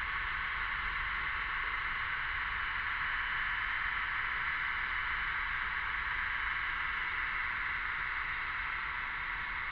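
Cicada chorus: a steady, dense buzzing hiss, swelling slightly in the middle.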